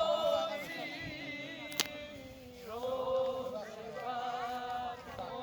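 A person singing, holding long, steady notes, with a sharp click about two seconds in.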